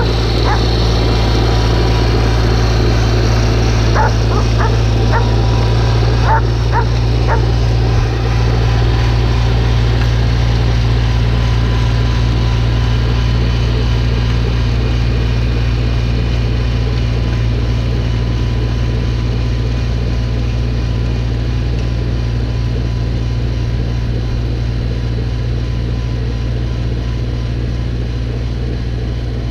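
Snowblower engine running steadily. A dog barks a few times in the first several seconds.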